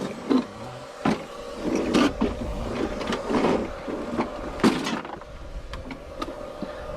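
Repeated pull-starting of an old Victa lawn mower's two-stroke engine: short, sharp zips of the recoil starter cord about once a second, over a steady hum.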